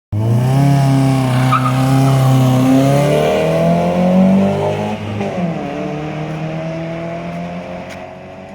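Alfa Romeo 146 Ti's 2.0 Twin Spark inline-four exhaust under acceleration, its note rising steadily. About five seconds in the pitch drops sharply, then climbs again more slowly as the sound grows fainter.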